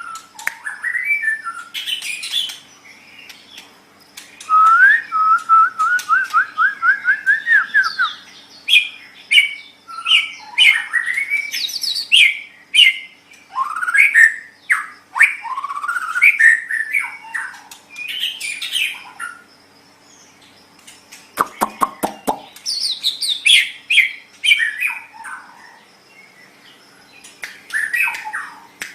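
White-rumped shama singing a loud, varied song of whistled phrases and pitch glides. About five seconds in comes a run of about a dozen quick rising notes, and about two-thirds through there is a short rattle of clicks. A faint steady hum sits underneath.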